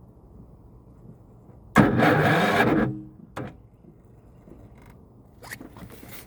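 Electric starter of a BE 7500iD inverter generator cranking for about a second and stopping, then a second short burst a moment later, without the engine catching: a failed start that the owner puts down to a battery too weak to start it.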